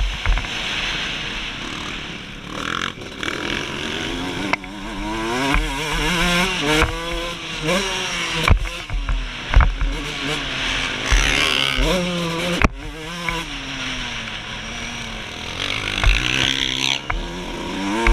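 Suzuki RM125 two-stroke single engine revving up and down again and again under changing throttle as the motocross bike is ridden. Several sharp knocks are scattered through it.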